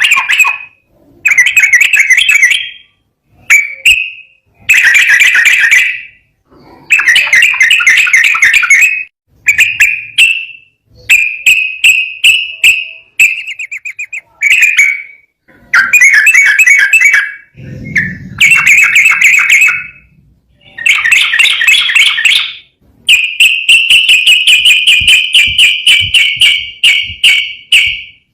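Yellow-vented bulbul (trucukan) singing loudly in repeated bursts of fast, chattering trilled phrases, each a second or two long with short gaps between. Near the end it gives one long unbroken trill of about five seconds.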